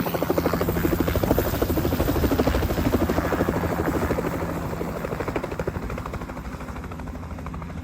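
Helicopter main rotor beating in fast, even pulses over the engine's drone, loudest in the first few seconds and gradually fading.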